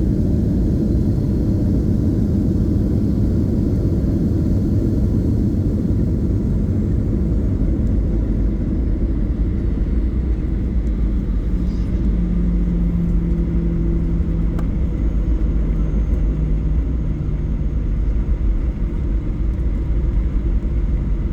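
Steady low rumble inside a passenger jet's cabin during landing, with a low engine hum coming up about twelve seconds in.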